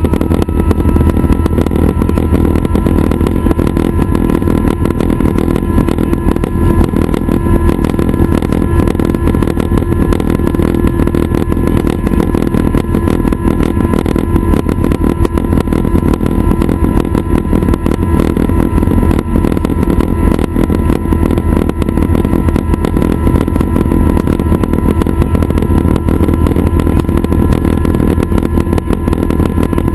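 Schweizer 269 training helicopter running steadily: its piston engine and rotor make a constant heavy drone, with a thin whine on top that rises slightly near the start.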